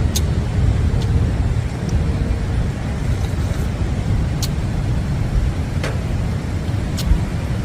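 Strong wind buffeting the microphone: a steady, deep rumble, with a few faint sharp ticks.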